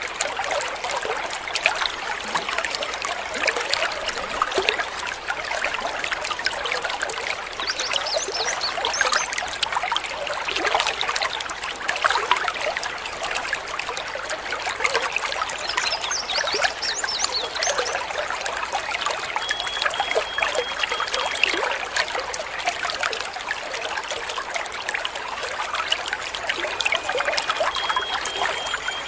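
Steady trickling, babbling water running over stones. A few faint, high bird chirps come and go over it.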